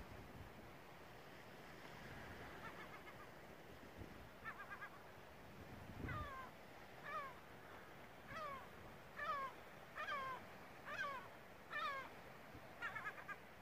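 A bird calling repeatedly on the shore: a series of short, falling notes, about one a second, with a few quick rattled notes before and after them.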